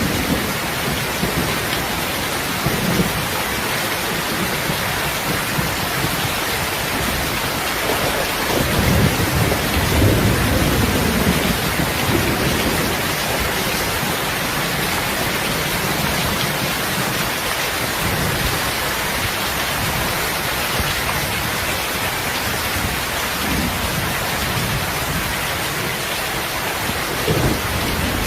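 Steady heavy rain, with low rumbles swelling underneath, the largest from about eight to twelve seconds in.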